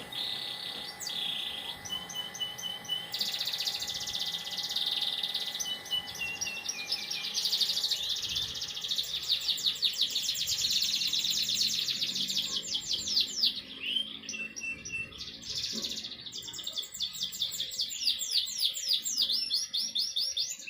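Domestic canary singing a long, continuous song of rapid trills and rolls, switching every few seconds from one quickly repeated phrase to the next.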